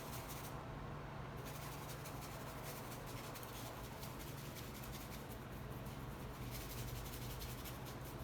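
Faint rubbing of paint being blended by hand across a canvas, over a steady low hum.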